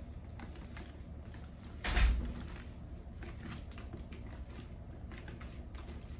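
A single heavy thump about two seconds in, like a kitchen cupboard or drawer shutting. It sits over faint, irregular crackling ticks from cooking oil heating on the stove.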